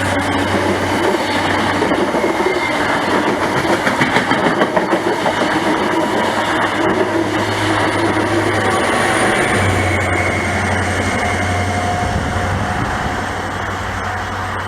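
Royal Train's Mk2/Mk3 coaches rolling past behind Class 67 diesel locomotives, wheels clicking over the rail joints, with a steady low locomotive engine hum, easing slightly near the end.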